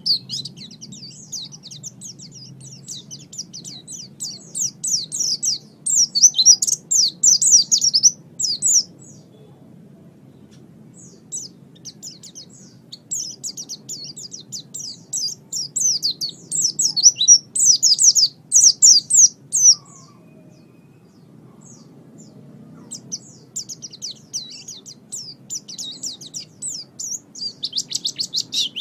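White-eye (pleci) singing: a fast, high twittering song in three long bouts, with short pauses about a third and two thirds of the way through. A faint low hum runs underneath.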